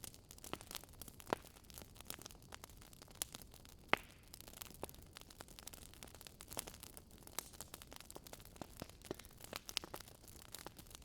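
Wood fire crackling softly: scattered sharp pops and snaps at irregular intervals over a faint hiss, with one louder pop about four seconds in.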